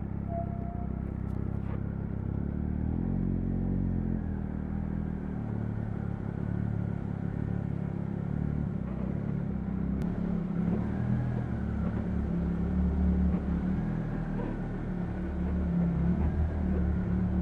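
Triumph Speed Triple 1050 RS's inline-three engine running while the bike is ridden, its note shifting with the throttle and swelling a little louder a few times.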